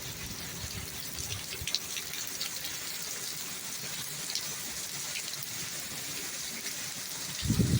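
Rain falling steadily, an even hiss with scattered drips and patters. A louder low rumble starts near the end.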